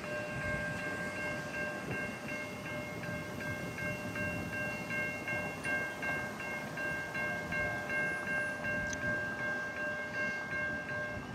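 Railroad crossing bell ringing in rapid, even strikes, about three a second, and cutting off shortly before the end, as the crossing gates reach the down position.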